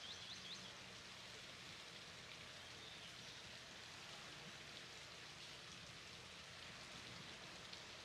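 Near silence: a faint steady hiss, with a rapid run of faint high chirps that ends about half a second in.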